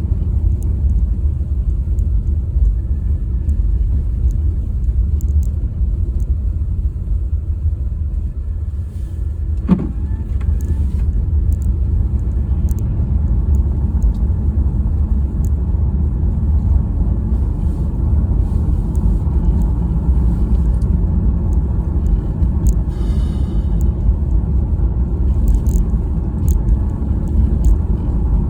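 Car driving: a steady low rumble of road and engine noise, with a single sharp knock about ten seconds in and a brief high squeak some thirteen seconds later.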